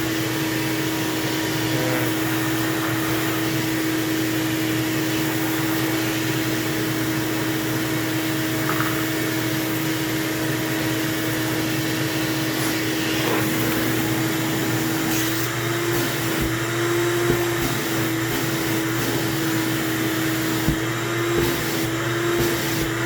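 Shop vac running steadily with a constant motor whine and air rush as it sucks dirt out of an upright vacuum's filter and housing. Its pitch wavers slightly in the second half, with a few light knocks.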